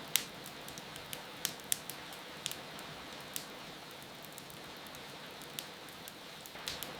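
Wood fire crackling, with irregular sharp pops, over a steady hiss of falling rain.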